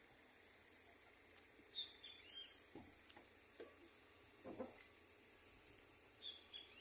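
Small birds chirping faintly in two short bursts, about two seconds in and again near the end, with a few quieter low calls in between over a steady faint hiss.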